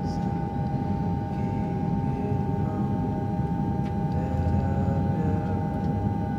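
A steady low rumbling drone with a single high, unwavering tone held over it.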